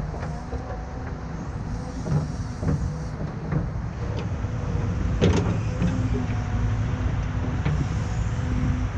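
Diesel engine of a heavy earthmoving machine running steadily, with a low rumble and a faint steady whine, and several metallic clanks and knocks, the loudest about five seconds in.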